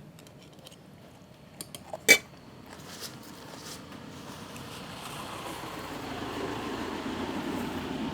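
A few light clinks of dishes and utensils, with one sharp clink about two seconds in, followed by a steady low noise that swells gradually louder through the rest, like a vehicle approaching.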